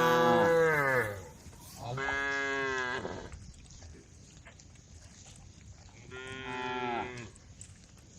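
Cows mooing, calling to the herd: three long moos, the first and loudest at the start, dropping in pitch as it ends, a second about two seconds in, and a fainter third about six seconds in.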